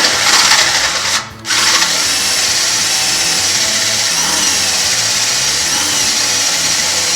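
Electric drill with a 5/16-inch bit boring into a steel rivet head on a truck frame, drilling the head off so the rivet can come out. The drill stops briefly about a second in, then runs steadily under load.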